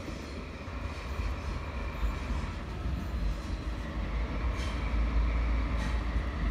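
An approaching locomotive-hauled train: a low rumble that grows steadily louder as it nears, with two brief hisses about four and a half and six seconds in.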